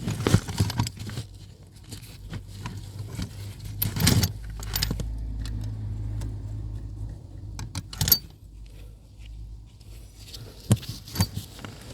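Metal clinks and rattles of a nut, bolt and hand tools being handled while fitting a steering rack mounting bolt, in scattered sharp knocks. A steady low hum runs for a few seconds in the middle.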